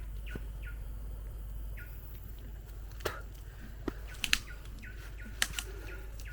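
Short falling bird chirps repeated, several in pairs, with a few sharp clicks and knocks in the second half, the loudest about four seconds in.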